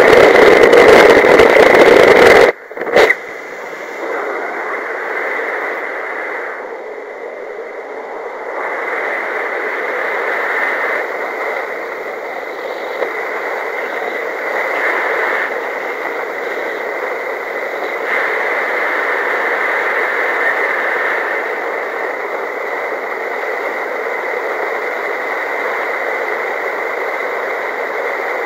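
A loud, distorted two-way radio transmission cuts off about two and a half seconds in, with a brief second burst just after. Then comes a steady rushing noise.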